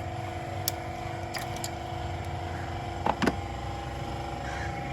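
Toyota GLi engine idling with a steady hum, with a few sharp knocks over it, the loudest a double knock about three seconds in. The car was brought in for a tappet noise.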